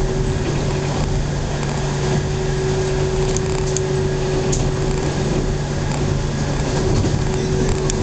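Inside a local electric train running along the track: a steady rumble with a constant low hum, and a few light ticks.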